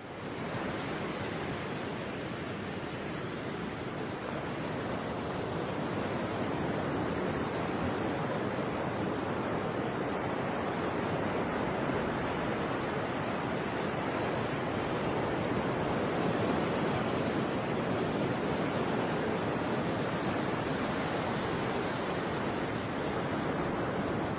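Steady rushing noise without pauses or impacts, building slightly over the first few seconds and then holding even.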